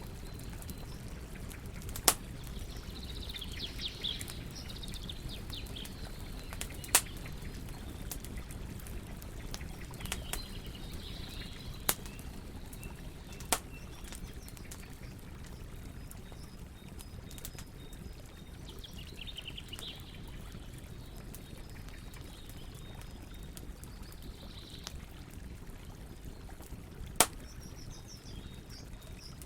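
Wood campfire burning with a steady low rush and occasional sharp crackling pops, about five loud ones. Birds chirp now and then in the background.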